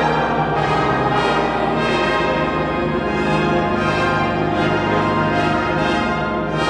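Brass instruments playing sustained, full chords of church music at a steady loudness.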